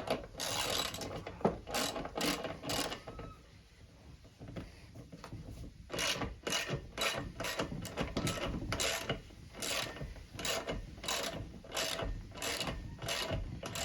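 Hand socket ratchet clicking in repeated back-strokes as a bolt is turned in. There is a busy spell early on, a lull after about three seconds, then steady strokes about twice a second from about six seconds in.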